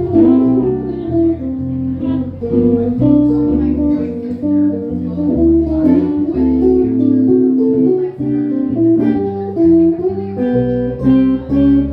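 Guitar music with a bass line: a run of plucked guitar notes over low bass notes.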